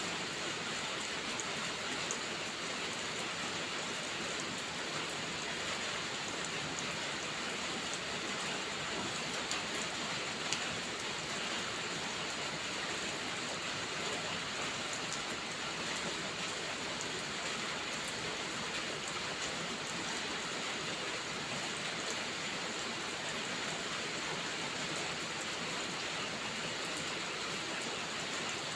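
Steady heavy rain, with scattered small crackles and pops from a wood fire in a fireplace; one sharper pop about ten seconds in.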